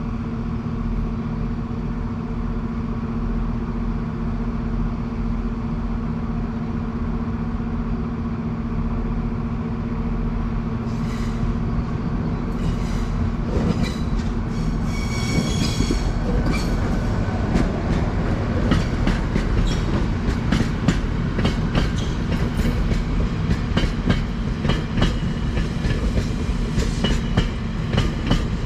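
Queensland Rail Diesel Tilt Train running slowly through a passing siding. A steady diesel hum gives way, from about halfway in, to wheels clacking over rail joints and points, with a brief high squeal along the way.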